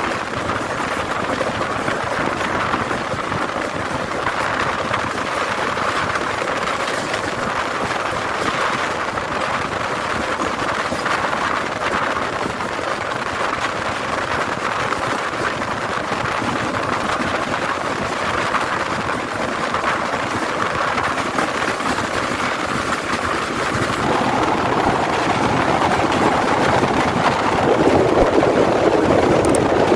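Steady rushing noise of a moving passenger train, the wheels on the rails mixed with wind, growing louder near the end.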